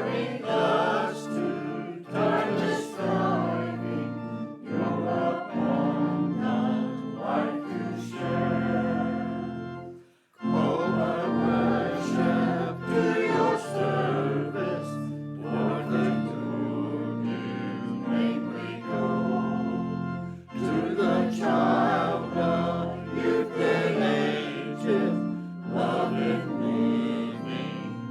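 Choir singing with organ accompaniment, with a short break between phrases about a third of the way through.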